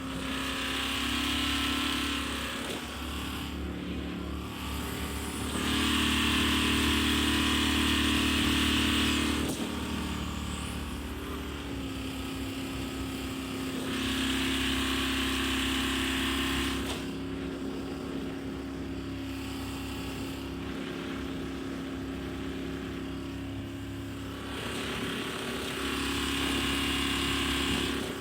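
Motorboat engine running steadily, swelling louder and dropping back several times.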